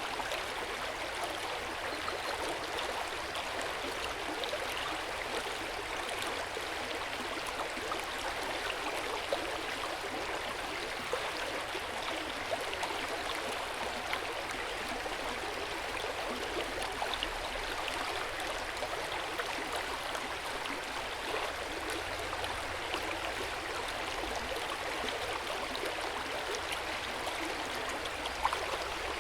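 Hot spring water pouring and splashing steadily into an outdoor onsen bath, an even rush of running water with small splashes and gurgles.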